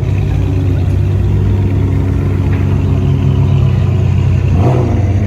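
Car engines running with a steady low rumble, as at a car meet with cars idling and creeping by. A brief shout cuts in near the end.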